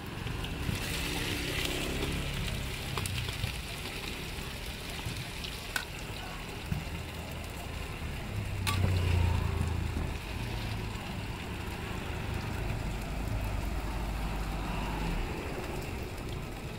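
Chive rice cakes sizzling in oil on a wide flat griddle pan, with a couple of sharp clicks of metal on the pan. A low engine rumble swells up about halfway through.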